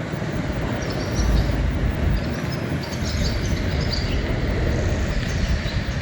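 Outdoor street ambience: a steady low rumble that swells about a second in, with faint high chirps scattered over it.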